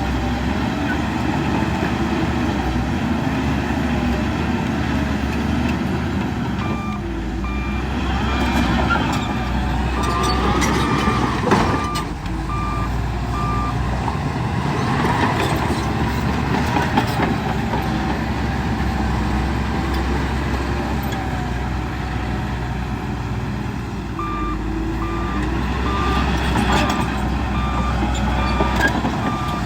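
Heavy earthmoving machinery engine running steadily, with a backup alarm beeping evenly at one pitch in two spells, about seven seconds in and again near the end, as a machine reverses.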